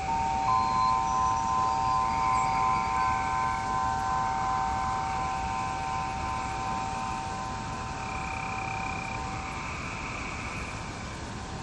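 Wind chimes ringing: several long, clear tones sound together at the start and slowly fade away. Beneath them, frogs call in recurring bursts.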